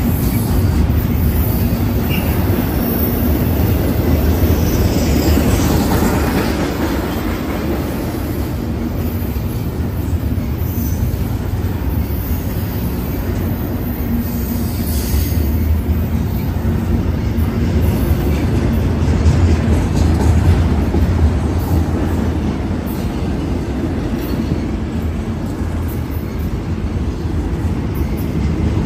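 Double-stack intermodal freight train of loaded well cars rolling steadily past, its wheels rumbling continuously on the rails. Brief high wheel squeals come through about five and fifteen seconds in.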